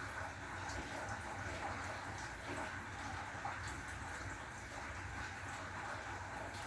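Rain falling steadily, an even hiss with faint scattered ticks of drops and no thunderclap.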